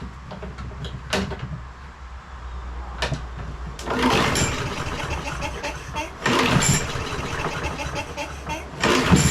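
John Deere JS36 walk-behind mower being pull-started: several yanks on the recoil starter crank the small engine, but it does not catch and run. The hard starting comes from a hidden crack in the intake manifold.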